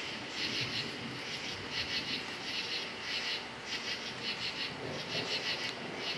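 Crickets chirping, each chirp a quick run of pulses, repeating about once or twice a second.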